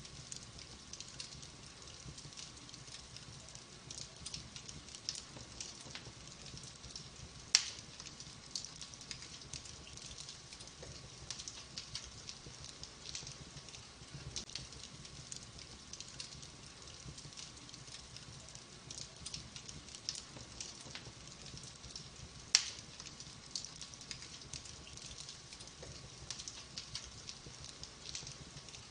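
Wood fire burning in a fireplace: a steady scatter of small crackles over a low hiss, with two louder sharp pops, about seven and a half seconds in and again near twenty-two seconds.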